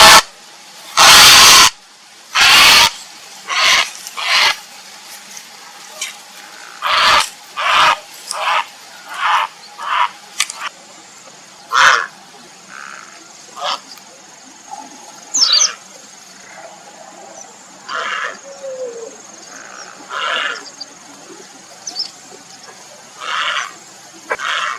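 Grey heron giving harsh, croaking calls, one after another: very loud and close together for the first few seconds, then fainter and more widely spaced.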